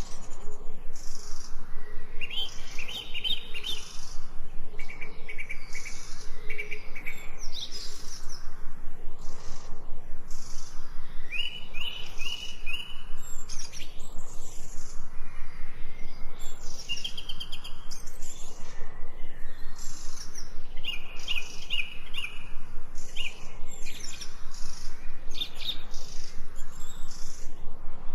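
Several songbirds chirping and singing, with short trilled phrases repeating every few seconds over a steady background hiss.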